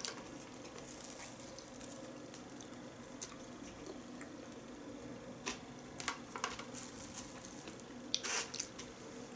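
Quiet wet chewing and mouth sounds from eating sushi rolls, with a few small clicks and smacks scattered through and a faint steady hum underneath.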